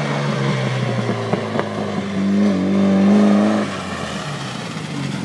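Mitsubishi Lancer Evolution's turbocharged four-cylinder engine revving as the car drives past: the revs climb about two seconds in, hold at their loudest, then drop off near four seconds as the throttle is lifted.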